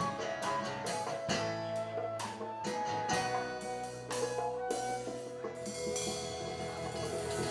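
Live art-rock band playing: drum kit strikes over held instrument notes. The drum hits stop about five seconds in, leaving the held notes ringing on.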